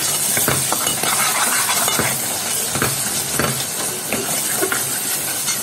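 Thick curry masala sizzling in an aluminium pot while a steel spoon stirs and scrapes it, with frequent short scraping clicks over a steady frying hiss. The masala is at the end of its roasting (bhunai).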